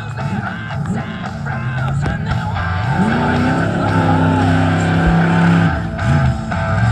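Monster truck engine revving hard, its pitch climbing about three seconds in and holding high, over rock music.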